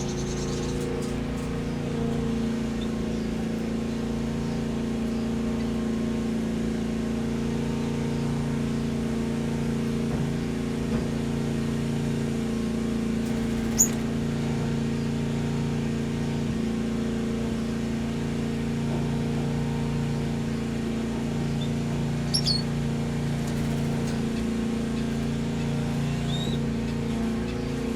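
A steady low mechanical hum made of several tones, its lowest tone slowly swelling and fading, under a few brief high chirps from aviary birds: a sharp one about halfway through and a couple more near the end.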